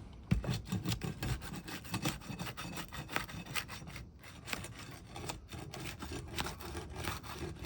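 Roofing flat bar worked under roof shingles to break their sealant strips: a continuous run of irregular scraping and rubbing strokes with short sharp clicks.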